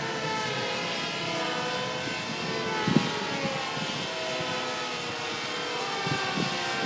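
Several electric RC combat planes' motors and propellers whining in the air, their overlapping pitches wavering as they fly around. There is one brief knock about three seconds in.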